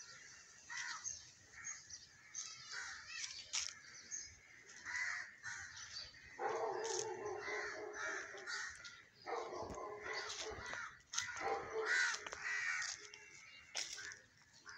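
Birds calling repeatedly, with two longer, lower stretches of calling about six and nine seconds in.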